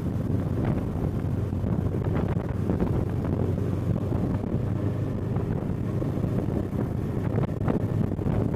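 Kawasaki Eliminator SE's parallel-twin engine running steadily under way, with wind buffeting the microphone.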